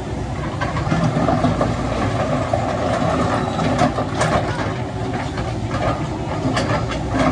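Heavy diesel machinery running steadily, with a few sharp metallic clanks around the middle and near the end.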